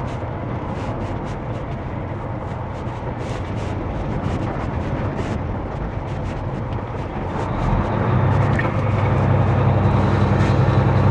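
Semi truck's diesel engine and road noise heard inside the cab. About eight seconds in, the engine note grows louder and steadier.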